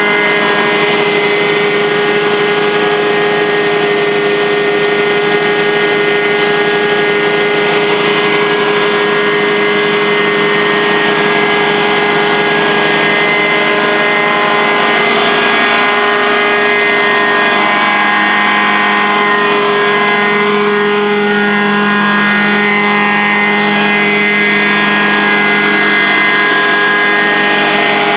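Truck-mounted carpet cleaning extractor running steadily, its engine and vacuum blower giving a loud, even hum of several steady tones that shift slightly in pitch about two-thirds of the way through.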